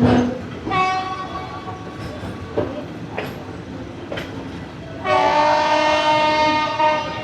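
Train horn: a short blast about a second in, then a louder blast of about two seconds near the end, over the knocking of the train's wheels on the rails.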